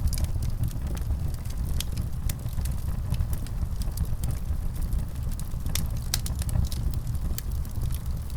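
Fireplace fire burning with a steady low rumble and irregular sharp crackles and pops.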